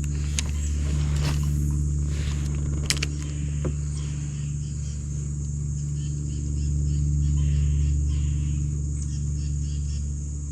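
A steady low motor hum, with a steady high hiss above it and a few sharp clicks in the first few seconds.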